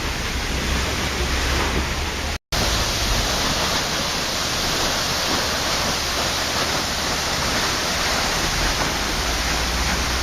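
Waterfall: steady rushing water, a dense even noise, cut by a momentary dropout to silence about two and a half seconds in.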